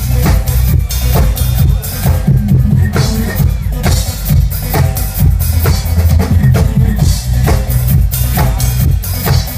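A drum kit played live along to a loud recorded pop backing track, with bass drum and snare hits throughout.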